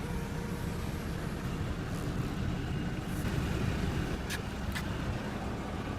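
Steady low rumble of a car engine running, with two faint clicks about four and a half seconds in.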